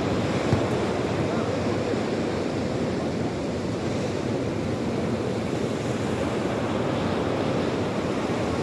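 Sea waves washing on the shore, a steady rushing noise that never lets up, with a single short tap about half a second in.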